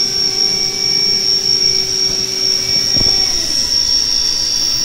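Haas VF3 CNC machining center's spindle running at 7,500 RPM: a steady high-pitched whine over a lower hum. About three seconds in the lower hum cuts off with a short knock while the high whine carries on.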